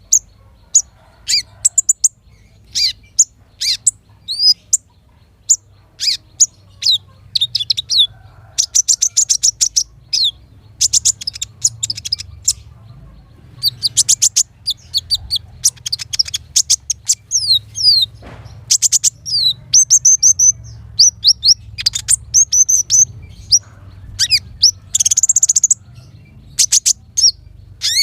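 Small songbird singing a fast, varied song of sharp high chirps and whistled notes in short phrases, with rapid trills around ten seconds and again from about fourteen to sixteen seconds in.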